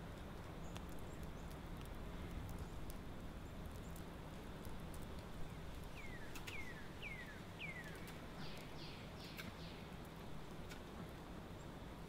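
Quiet woodland ambience: a bird gives four descending whistled notes about six seconds in, then a quick run of short, higher notes. Under it, faint scattered clicks from the wood fire crackling in the stone oven, with one sharper pop about five seconds in.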